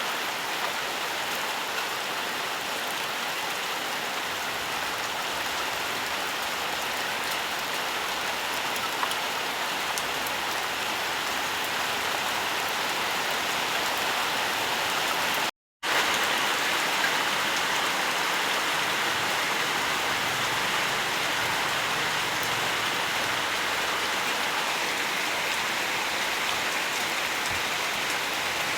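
Steady rain falling, an even hiss with scattered drop ticks. The sound cuts out completely for a split second about halfway through, then resumes.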